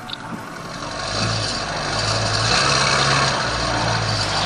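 Aircraft engines running steadily, growing louder over the few seconds.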